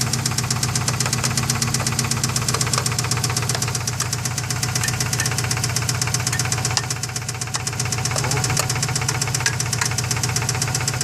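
Subaru engine running with a rapid, even ticking knock from inside it: the unidentified noise that the owners are trying to trace.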